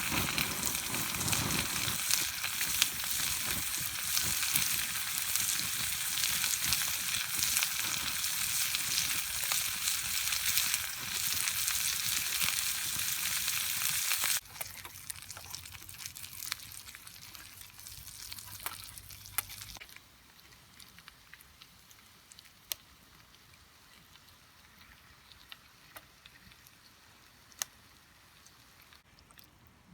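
Food sizzling hard in a pan over a campfire, a dense crackling hiss that cuts off suddenly about halfway through. After that only a faint hiss with scattered sharp snaps is left.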